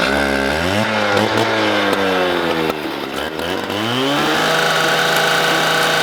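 An engine revving: its pitch climbs, sags back down, climbs again about four seconds in, then holds a steady high speed.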